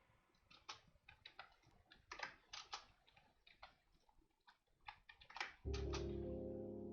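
Computer keyboard typing: irregular keystrokes and clicks while values are entered. Near the end a sustained chord of background music comes in.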